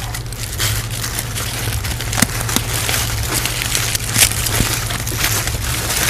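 Rustling and scattered clicks and light knocks of takeout food packaging being handled and opened, over a steady low hum.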